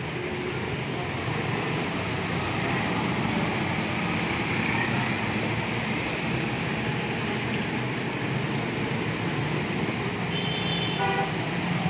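Heavy rain pouring steadily onto a street and its puddles, an even rushing noise, with road traffic mixed in. A short pitched sound cuts through about ten seconds in.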